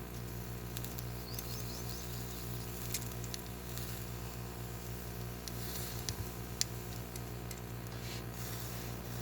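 Steady low machine hum with scattered faint clicks and brief rustles.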